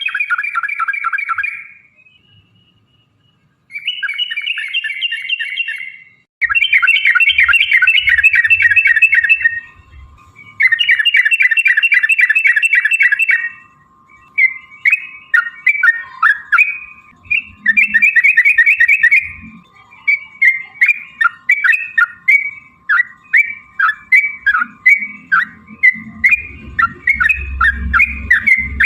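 Yellow-vented bulbul (trucukan) song: several long, rapid rolling trills of two to three seconds each, then a run of quick, choppy chirping phrases in the second half.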